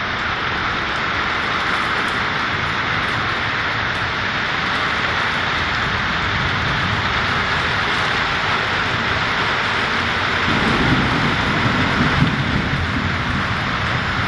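Heavy rain pouring steadily. About two-thirds of the way through, a low rumble joins in underneath and stays to the end.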